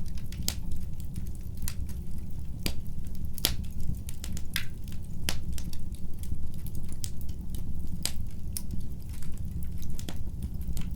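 Fire in a fireplace crackling: irregular sharp pops and snaps, several a second at times, over a steady low rumble of the flames.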